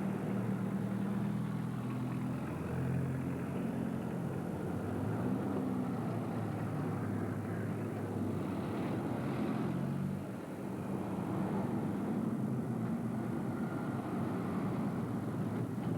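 A steady low mechanical drone with a wavering hum, like a motor running, dipping briefly about ten seconds in.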